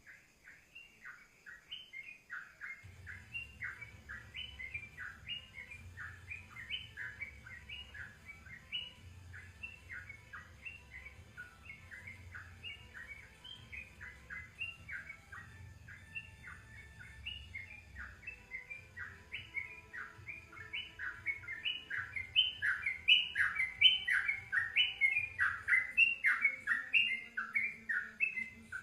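Songbird singing a long, fast run of sharp chirping notes, growing louder about three quarters of the way through, over a steady low hum that starts a few seconds in.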